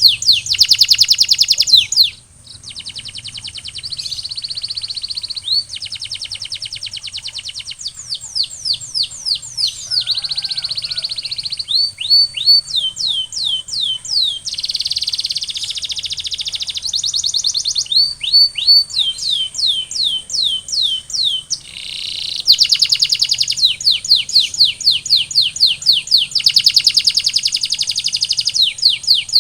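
Domestic canary singing continuously, switching every second or two between fast trills, runs of quick downward-slurred notes and buzzing rolls. A faint steady high whine runs underneath.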